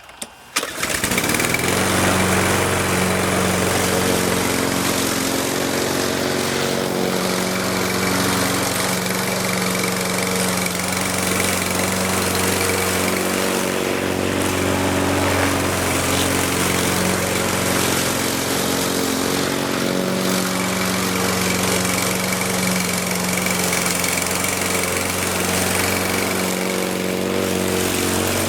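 Husqvarna LC 121P lawn mower's Briggs & Stratton engine starting about half a second in, then running steadily without stalling. It now stays running after a stalling fault that was traced to the handle.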